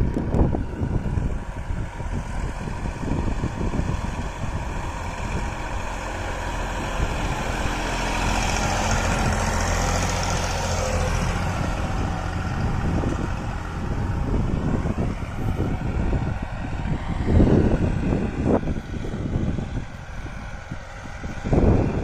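Massey Ferguson 9500 tractor's diesel engine running steadily while pulling a nine-tine cultivator, with wind buffeting the microphone at times.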